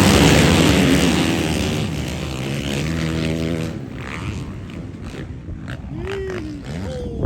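Several motocross bike engines running hard at high revs, loud for the first few seconds, then dropping away. Near the end single engines rise and fall in pitch as they are revved. A sharp knock comes right at the end.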